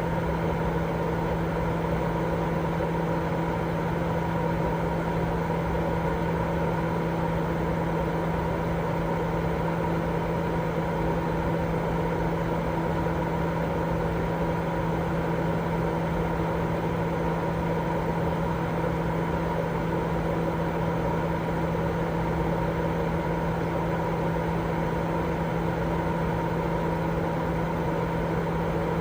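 Continuous baby-sleep white noise: an even, unchanging machine-like whir with a steady low hum beneath it.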